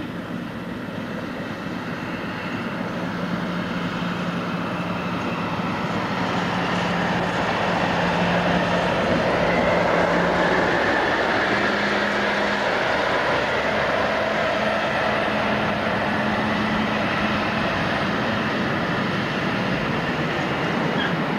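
Diesel freight locomotive passing close by, its engine running with a steady drone that grows louder as it approaches and peaks about ten seconds in. A long train of loaded tank wagons then rolls past with a continuous rumble.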